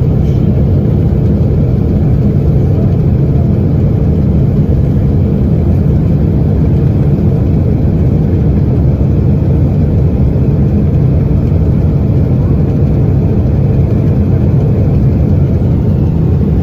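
Loud, steady, low roar of a Boeing 777 jet airliner in flight, engines and rushing air, after one of its engines has failed.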